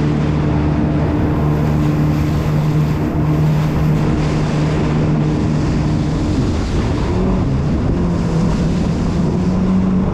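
Jet ski engine running under way, with wind and water noise. The engine note holds steady, wavers about two-thirds of the way through, then settles a little higher.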